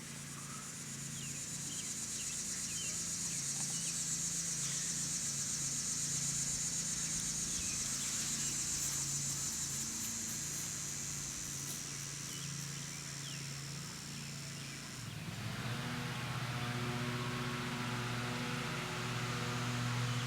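Insects buzzing steadily in a high chorus that stops abruptly about three-quarters of the way through, over the low, steady hum of an engine running that grows stronger as the insects stop.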